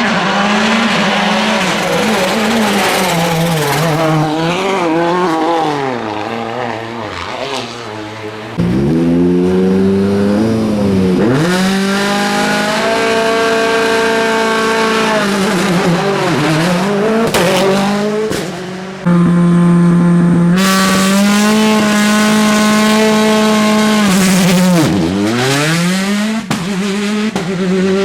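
World Rally Cars' turbocharged four-cylinder engines on a rally stage, revving hard and shifting gear, the engine note repeatedly climbing and then dropping sharply. The sound changes abruptly about a third of the way in and again past the middle, as one clip of a car cuts to another.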